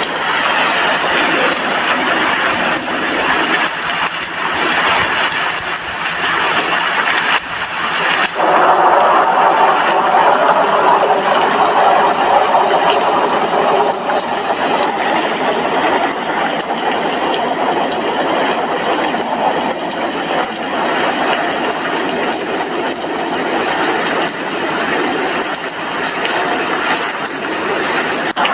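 Steady rain heard from an apartment window, a dense even hiss that swells and grows fuller about eight seconds in.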